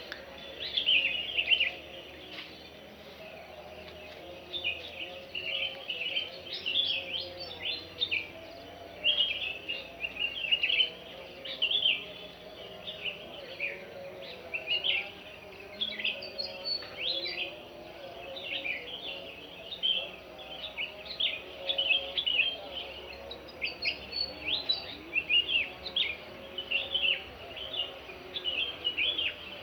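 A chorus of many small birds chirping and singing in quick, overlapping short calls, with no break, over a faint steady lower murmur.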